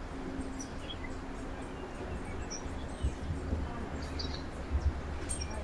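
Small backyard birds giving short, scattered chirps over a steady low rumble. A few soft knocks come about three seconds in and twice near the end.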